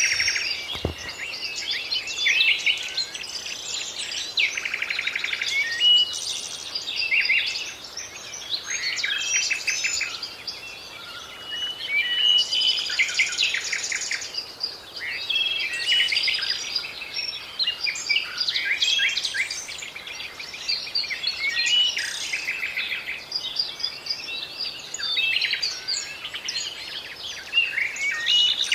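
Several songbirds singing and chirping at once in a continuous chorus of overlapping trills and quick chirps, over a faint steady background hiss.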